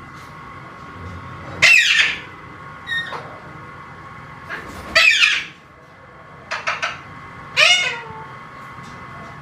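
Alexandrine parakeet calling: three loud calls, each falling in pitch, about every three seconds, with short squeaks and clicks between them.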